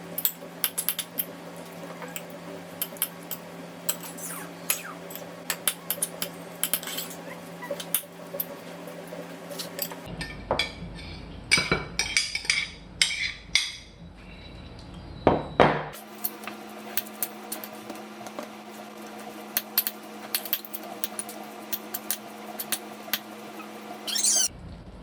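Dishes and cutlery clinking and clattering in a run of short knocks, over a steady low hum. The hum changes abruptly about ten and sixteen seconds in, as between separate takes.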